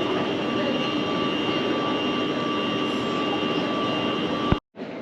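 Steady jet airliner noise with a few steady humming tones. It cuts off suddenly with a click about four and a half seconds in.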